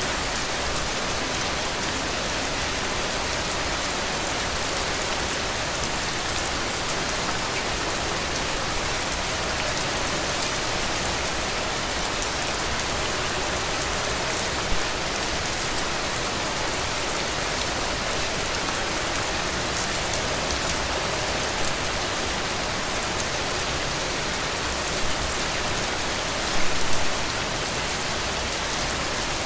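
Heavy rain falling steadily, an even hiss of drops, with a few brief louder taps, the loudest cluster near the end.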